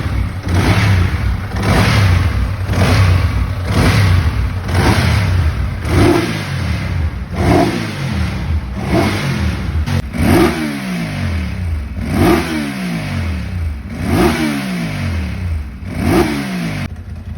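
Ducati 748's 90-degree V-twin engine being blipped on the throttle over and over: quick revs about once a second at first, then from about six seconds on separate blips every two seconds or so, each falling back toward idle.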